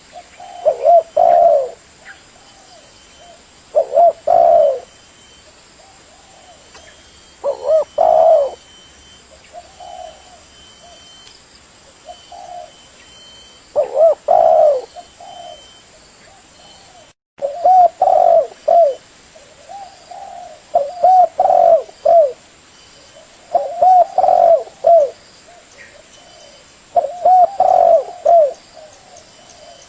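Spotted dove (tekukur) cooing: short phrases of two to four low, slightly bending coos, repeated every few seconds. The sound cuts out for an instant a little past halfway.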